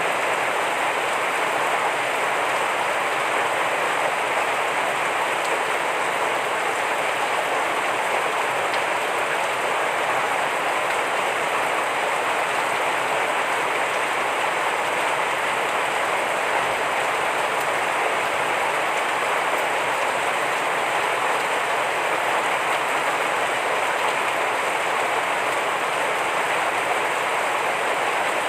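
Heavy rain falling steadily, a dense, even hiss with no breaks or single drops standing out.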